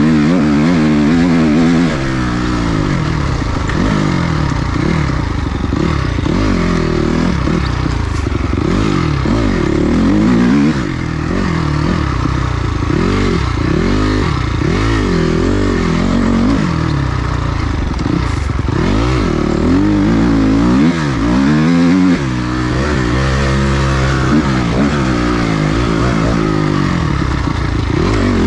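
Dirt bike engine being ridden hard, its note repeatedly rising as it revs out and dropping back as the rider shifts and rolls off the throttle.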